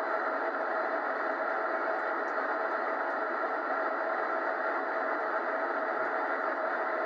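Steady, even rushing noise with no change in level: a jet-engine sound effect.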